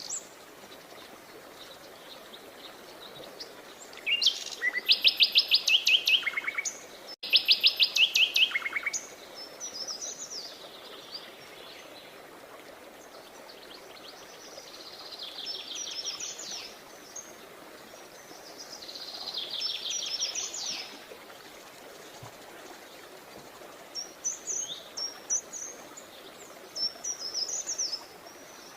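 Songbirds singing. Two loud, fast trills of rapidly repeated high notes come a few seconds in, followed by softer trills and scattered chirps, over a steady background hiss.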